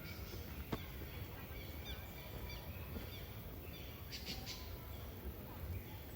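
Wild birds chirping in short, high notes, with a quick run of rapid notes about four seconds in, over a steady low rumble. A single sharp click comes just under a second in.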